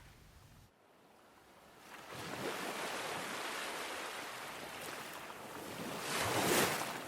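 Ocean waves washing onto a shore. One wave swells in about two seconds in, and a louder one breaks near the end.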